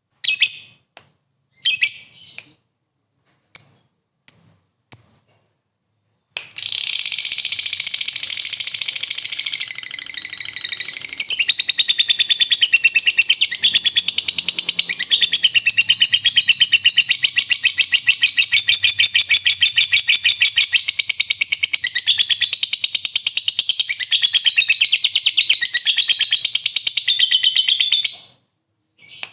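Lovebird giving a few short chirps, then about six seconds in breaking into one long, unbroken, very fast high-pitched chattering trill, the long 'ngekek', which runs for about twenty seconds before it stops and gives way to a few more chirps near the end.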